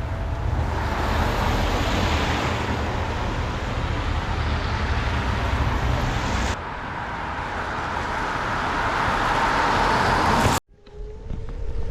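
Electric scooter ride: wind buffeting the microphone over road noise, broken by two abrupt cuts. Near the end the scooter's motor whine rises slowly as it picks up speed.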